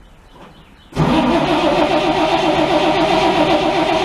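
1949 Chevy truck's engine turned over by the starter motor with the ignition off, cranking without firing to pump fuel up to the carburettors. The cranking starts about a second in, runs in an even rhythm, and stops near the end.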